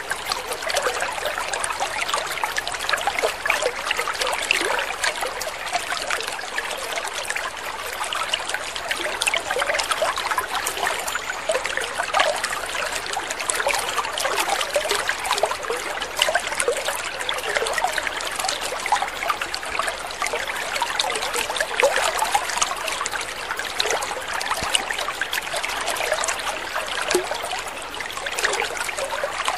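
Water trickling steadily, a continuous babble of many small splashes and gurgles.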